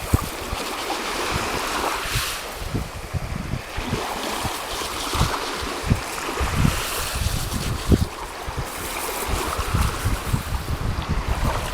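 Sea waves washing in swells every few seconds, with wind buffeting the microphone in low gusts.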